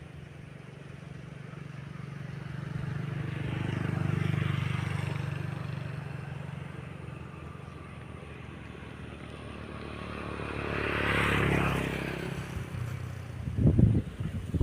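Vehicle engine noise, a low hum with a rushing edge, that swells and fades twice, about seven seconds apart.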